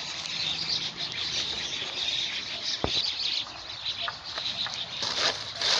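Birds chirping in a dense background chorus, with insects, and a single sharp click about halfway through and a short rustle near the end.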